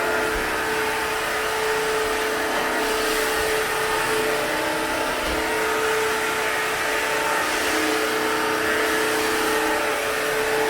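Bissell CrossWave Cordless Max wet-dry vacuum-mop running steadily over a hard floor, its motor giving a steady whine with a hiss.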